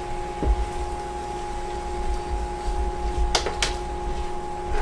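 Fried rice being stirred in a pan just after the soy sauce goes in: a low rumble and two sharp clicks of the utensil on the pan a little over three seconds in, over a steady hum.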